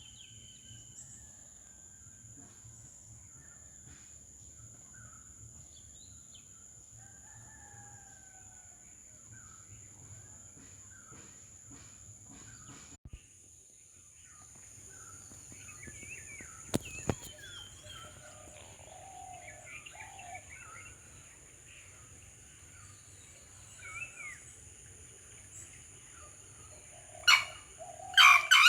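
Sri Lanka junglefowl crowing, a short loud call near the end, among the chirps and calls of other birds, with a steady high drone throughout.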